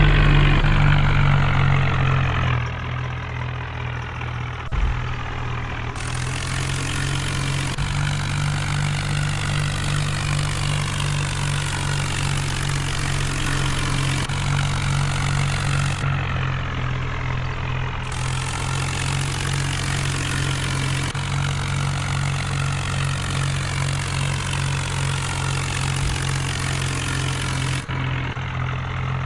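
Vehicle engine idling steadily, with a brief dip in level about two and a half seconds in.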